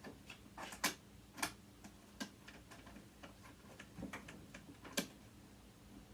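Light, irregular clicks and taps of a screwdriver and small metal parts being handled while a sewing machine motor is taken apart.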